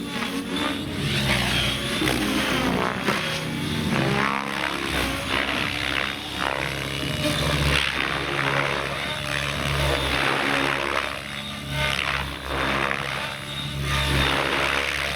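Electric T-Rex 700X RC helicopter flying 3D aerobatics: a continuous motor whine and rotor noise that sweeps up and down in pitch again and again as it swoops and flips.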